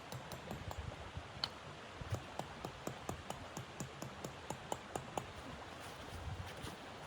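Wood fire crackling: irregular sharp pops and snaps, a few a second, over a steady hiss, with one louder pop about a second and a half in.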